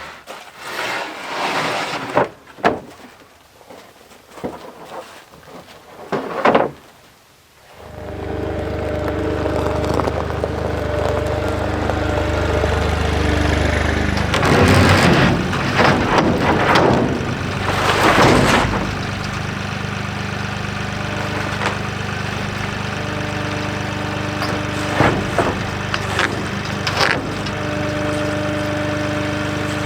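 Avant 755i compact tractor's engine running steadily, starting abruptly about eight seconds in after a few scattered knocks. Louder noisy bursts come over the engine about halfway through.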